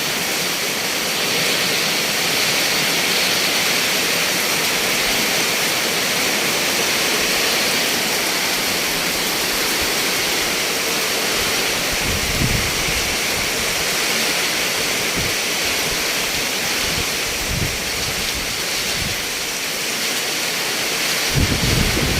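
Heavy rain pouring steadily in strong wind, with low gusty rumbles breaking in from about halfway and growing stronger near the end.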